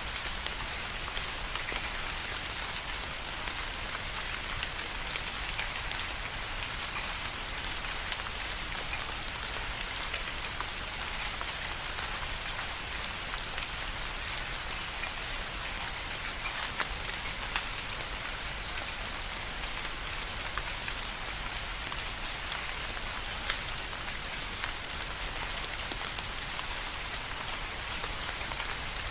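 Steady rain falling, a continuous hiss with many individual drops pattering distinctly on a surface.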